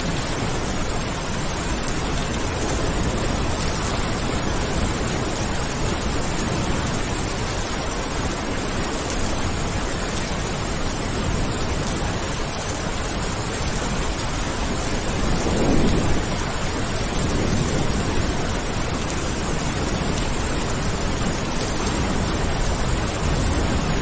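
Steady heavy rain as a dense hiss, with a short roll of thunder swelling up about two-thirds of the way in.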